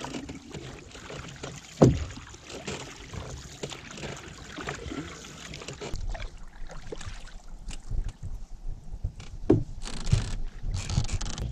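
Canoe being paddled: water washing and dripping from the paddles, with small ticks and a couple of sharper knocks, about two seconds in and near the end, of paddle against hull.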